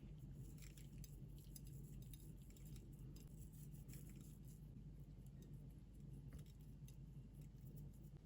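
Faint, scattered light clicks and taps over a steady low hum.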